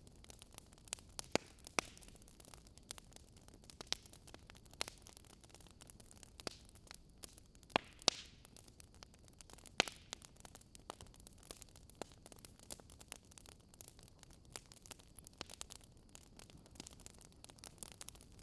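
Faint crackling of a wood fire: irregular sharp pops and snaps, a few a second, over a low steady hiss.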